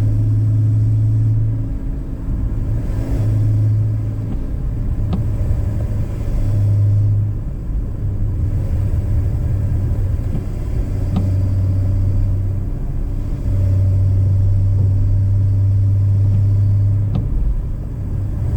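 BMW E46 inline-six engine and K&N intake droning at a steady low pitch while cruising. The drone eases off and comes back several times with the throttle, over a constant rumble of road and tyre noise.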